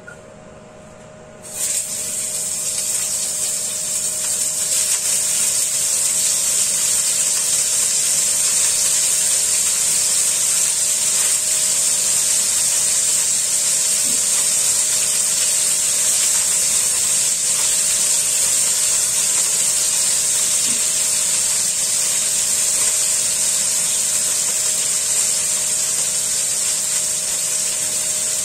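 Beef-wrapped mushroom rolls sizzling in hot oil in a frying pan. The sizzle starts suddenly about a second and a half in, then holds steady, over a faint steady hum.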